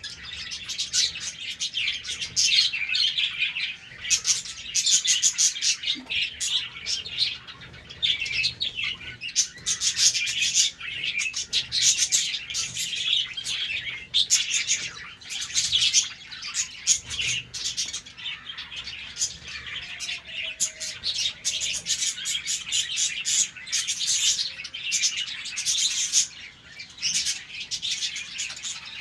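A colony of budgerigars chirping and chattering together, many birds calling at once in a dense, continuous twitter.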